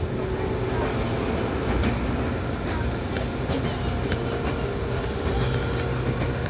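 Seibu 4000 series electric train running at speed, heard from inside the passenger car: a steady rumble of wheels on rail under a low hum, with scattered sharp clicks.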